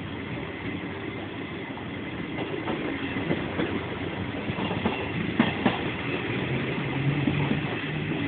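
Passenger train running along the track, heard from inside the carriage: a steady rumble with a few sharp clicks of wheels over rail joints, and a low hum coming in about two-thirds of the way through.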